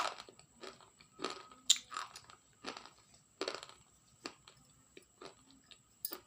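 Crunchy food being bitten and chewed close to the microphone: irregular, sharp crunches, several a second at first, then more spaced out.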